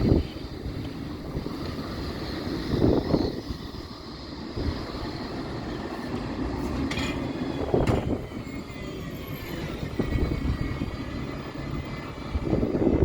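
Blackpool Flexity 2 tram running, a steady rumble with a high electric motor whine whose pitch falls off around the middle, while wind gusts thump on the microphone a few times.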